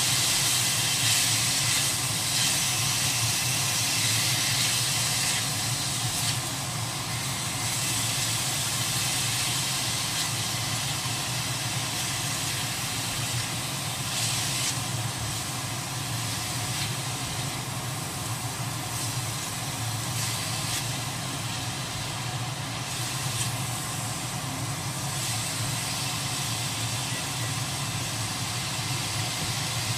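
Squid pieces sizzling in a hot wok as they are stir-fried, a steady hiss over a constant low hum.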